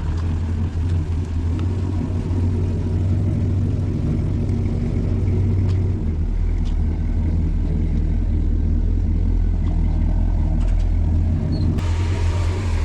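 Oldsmobile 350 V8 running on an engine run stand through bare exhaust manifolds with no mufflers: loud and steady and low-pitched, with a hiss joining about twelve seconds in.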